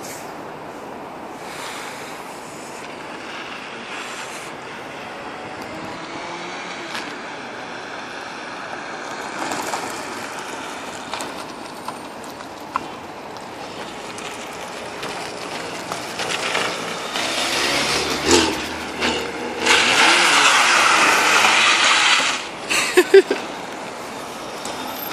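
VW Golf Mk1 engine revving up and down as the car drives around, faint at first and growing louder as it comes closer, loudest for a couple of seconds near the end as it passes near. A few short sharp sounds follow just after.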